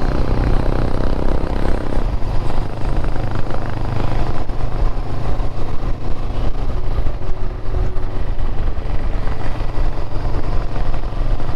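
Motorcycle engine running steadily at road speed, recorded on the riding bike. A higher-pitched engine note in the mix drops away about two seconds in.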